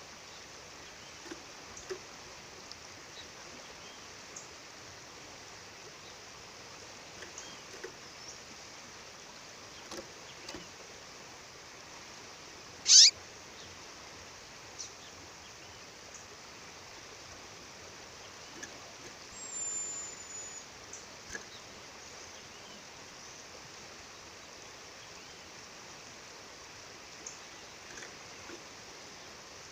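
Steady rush of a waterfall with a female bird calling over it: one loud, quick call sweeping down in pitch about 13 seconds in, a thin high whistle around 20 seconds, and a few faint chirps scattered between.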